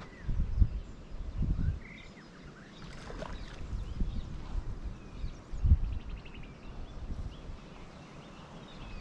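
Wind buffeting the microphone in irregular low rumbling gusts, with small birds chirping now and then.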